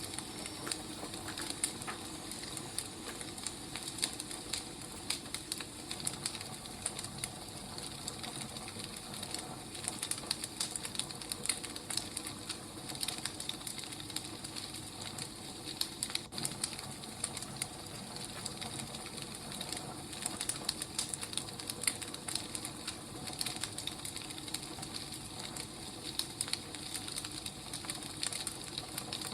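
Wood fire crackling, with frequent irregular small snaps and pops over a steady hiss.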